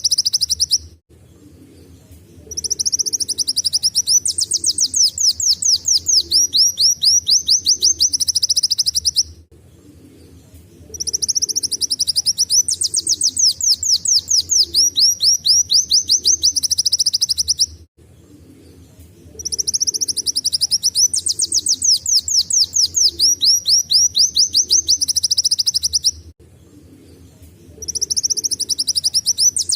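Kolibri wulung sunbird singing a canary-like song: fast, high trills of rapidly repeated, partly falling notes in long phrases of about seven seconds, each followed by a pause of about two seconds.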